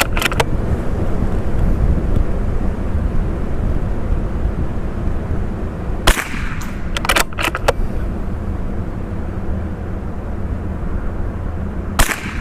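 Strong wind buffeting the microphone with a steady low rumble, and a .22LR rifle shot from a CZ457 Varmint MTR about six seconds in, followed by a few short sharp clicks; a second shot comes near the end.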